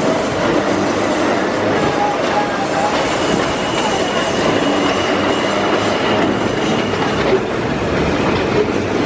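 Car running along the track, heard from on board the 1903 BU elevated car: a steady rumble and rattle from the wheels and the car body. A thin, high wheel squeal runs through from about three seconds in to about seven seconds.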